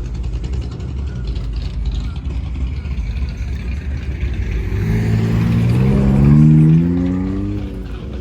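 Car engine accelerating, its note rising in pitch from about five seconds in, loudest a little past six seconds and then fading, over a steady low rumble.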